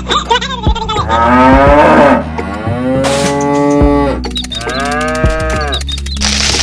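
Cow mooing: three long moos, each rising and then falling in pitch, over a steady low hum.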